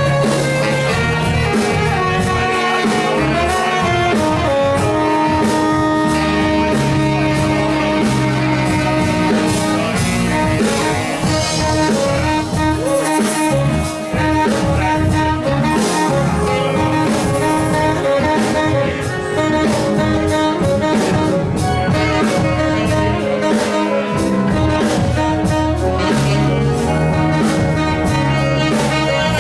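Live blues band playing an instrumental passage with saxophone, electric guitar, keyboards, bass and drums, with no vocals.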